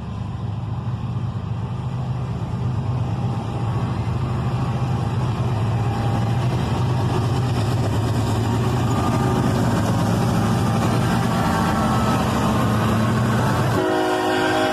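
Diesel freight train running past with a deep, steady engine rumble that builds louder over the first several seconds. Near the end it cuts to a locomotive air horn sounding.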